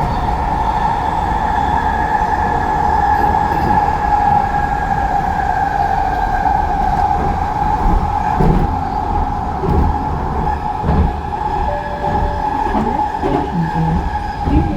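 A train running, with a steady high-pitched whine that drifts slowly down in pitch over a constant low rumble and scattered knocks.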